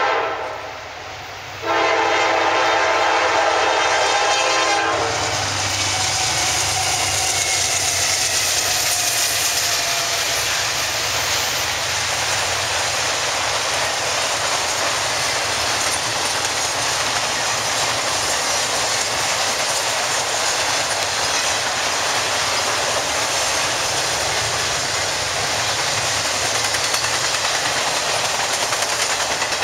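Freight locomotive's air horn warning for a grade crossing: a short blast right at the start, then one long chord of about three seconds. After it comes the steady rumble and clatter of an intermodal freight train's flatcars, loaded with highway trailers, rolling past.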